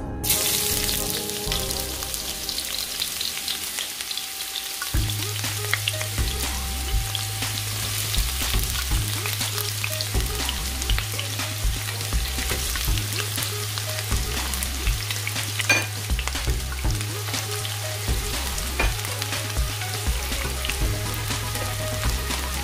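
Chopped onion sizzling and crackling as it fries in hot oil in a wok, being stirred. The sizzle starts suddenly as the onion goes into the pan.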